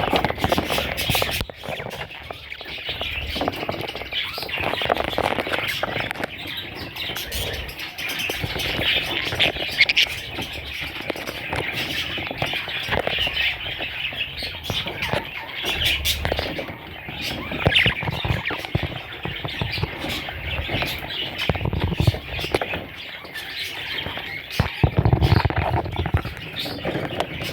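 Budgerigars chirping and squawking in a continuous chatter, with some low bumps and rustling, loudest near the end.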